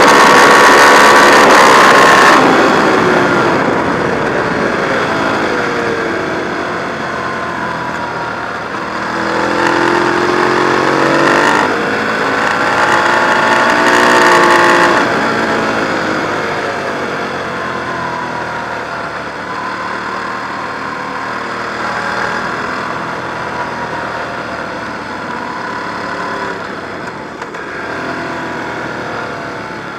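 Ducati 1098's L-twin engine on a track lap with wind rush. It runs at high revs at first, then shuts off about two and a half seconds in. The pitch falls and rises through the corners, climbs hard under acceleration from about nine to fifteen seconds, then eases off again.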